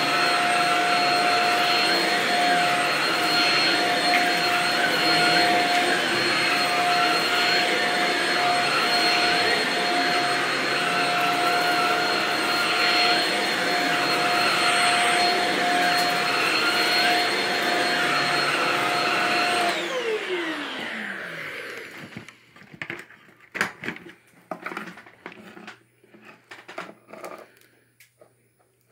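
Vacuum cleaner running on shag carpet, its steady motor whine swelling and easing about once a second as it is pushed back and forth. About twenty seconds in it is switched off and the motor winds down with a falling pitch, followed by a few scattered clicks and knocks.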